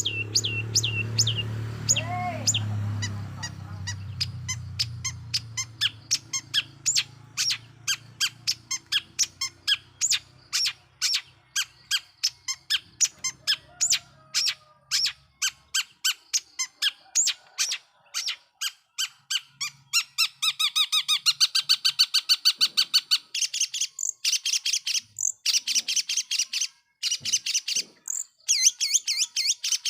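Long-tailed shrike (cendet) singing an insistent run of short, sharp chirping notes, about three a second, that speeds into a faster chatter after about twenty seconds. A low hum underneath fades out in the first few seconds.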